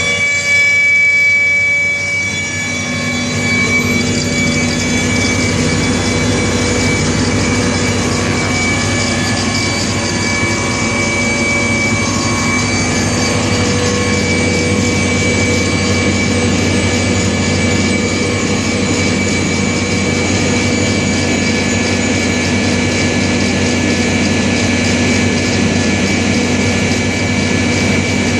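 Engine-driven air compressor running steadily with a high whine, picking up about three seconds in as it works to build air pressure.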